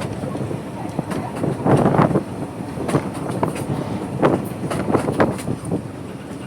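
Train running along the track: a steady rumble with irregular knocks and clatters from the wheels and the coaches, loudest about two seconds in.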